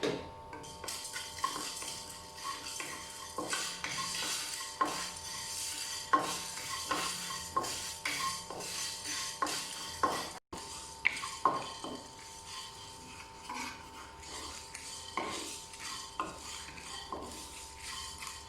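Whole spices (black pepper, cumin, fennel seeds and dried red chillies) being dry-roasted in a pan and stirred with a spatula: irregular scrapes and taps of the spatula against the pan, with the seeds rustling. The sound cuts out briefly about ten seconds in.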